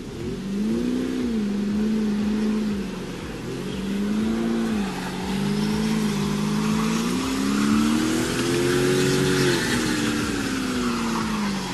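An engine revving up and down several times, over a steady rushing noise.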